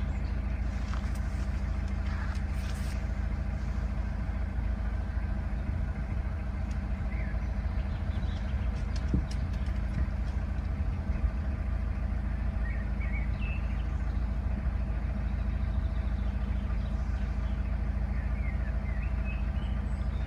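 Narrowboat's diesel engine running steadily at low cruising revs. A few short bird chirps come through over it.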